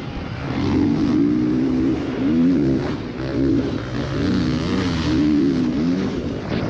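Motocross bike engines revving hard, the pitch rising and falling repeatedly as the riders work the throttle around the track.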